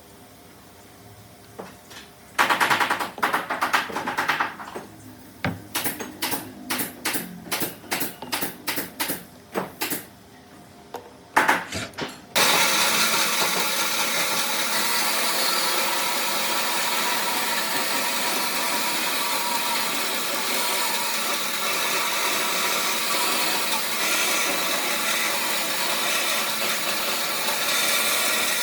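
A run of sharp knocks, about two a second, then a power tool starts up and runs steadily on wood.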